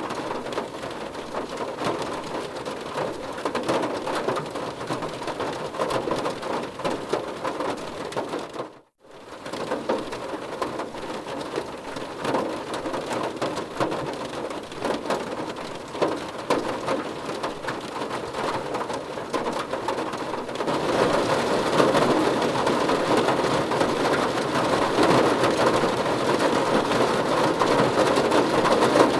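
Steady heavy rain, with many individual drops pattering on a surface. About nine seconds in the sound cuts out for a moment. It grows louder and denser about two-thirds of the way through.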